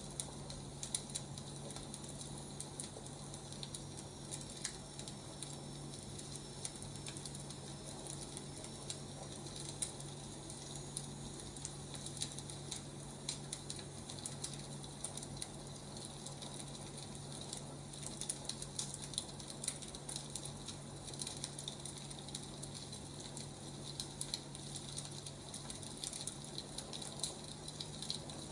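Wood fire crackling: frequent irregular small pops and snaps over a soft hiss and a steady low hum.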